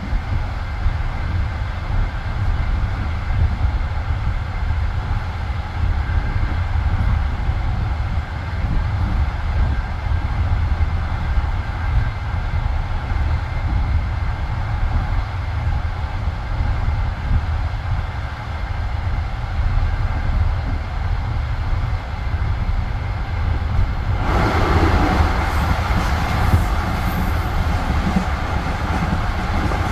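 Passenger railway carriage running along the track, heard from inside: a steady low rumble of wheels on rails. About 24 seconds in, a brighter rushing hiss joins and carries on to the end.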